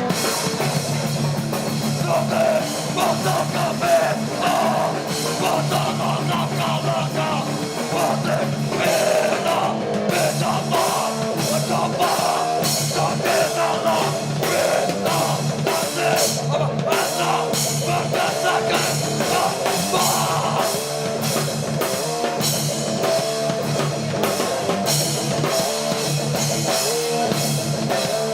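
Hardcore band playing live: loud distorted guitars and bass over fast, pounding drums, with shouted vocals in places.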